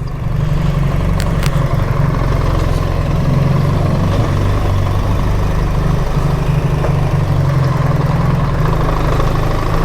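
BMW R 1300 GS boxer-twin engine running steadily at low, even speed on the move, with no revving.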